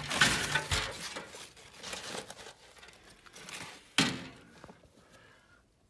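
Rustling, crinkling handling noise for about the first second, then scattered faint knocks and one sharp clack about four seconds in.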